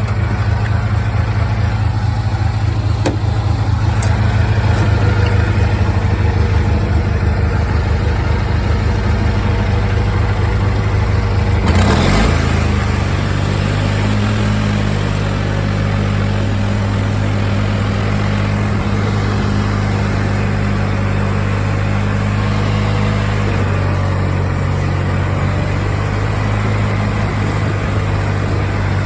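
The lawn tractor's 20 hp Kohler Magnum engine running steadily. About twelve seconds in there is a brief noisy burst, after which the engine note shifts and settles again.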